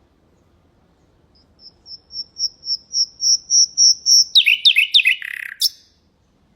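Common nightingale singing one phrase: a slow run of about ten repeated pure whistles that grow steadily louder, breaking into a few quick downward-sweeping notes and ending in a lower buzzy note.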